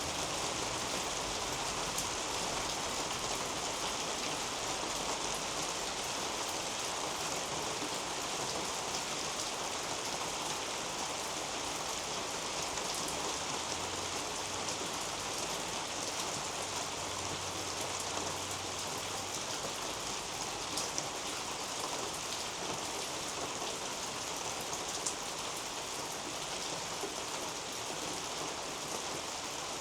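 Steady rain falling on leaves and a roof overhead, with a few sharper drops standing out.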